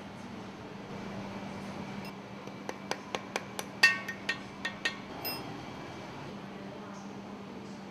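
A quick run of about ten sharp metallic clinks over a few seconds, some ringing briefly: steel tools and bolts knocking against the valve housing as the new guide bushing and its four bolts are fitted. A steady low hum runs underneath.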